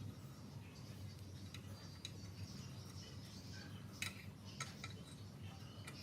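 Small metal parts clinking and ticking, with a few sharper clicks about four seconds in and again at the end, over a low steady hum.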